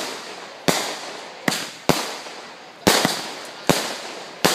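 Aerial fireworks bursting overhead: a quick, uneven series of sharp bangs, about seven in a few seconds, two of them almost together, each trailing off briefly.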